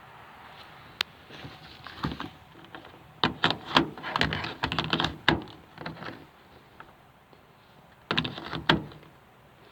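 Irregular sharp clicks, knocks and rattles in clusters: a single sharp click about a second in, a dense run of knocks in the middle, and another short burst near the end.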